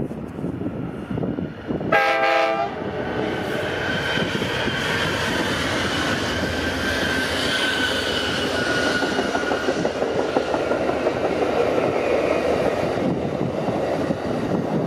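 Amtrak passenger train passing close by: one short blast of the locomotive's air horn about two seconds in, then the steady rumble and clatter of double-deck Superliner cars rolling past.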